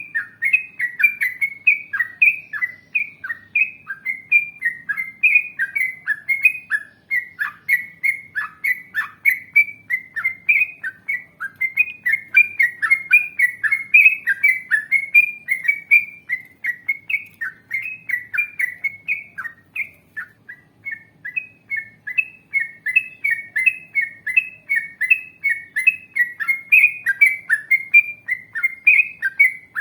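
Yellow-vented bulbul (trucukan) singing a long, fast run of chirping notes, each dropping in pitch, about three a second, with a brief pause about twenty seconds in.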